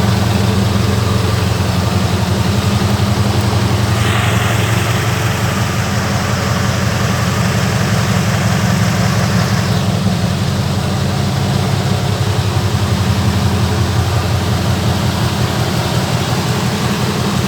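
Scania V8 diesel truck engine idling steadily with a deep, even note. A hiss joins it about four seconds in and stops about ten seconds in.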